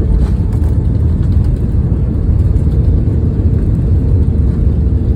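Cabin noise inside an Airbus A320 around landing: a loud, steady low rumble of the engines and airflow, with a faint steady hum above it.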